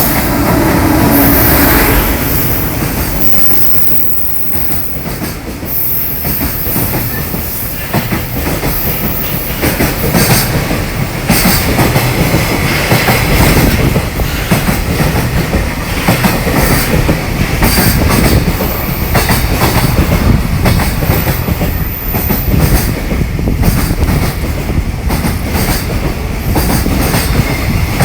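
A freight train passing at close range, its wheels clacking over the rail joints as the cars roll through without stopping.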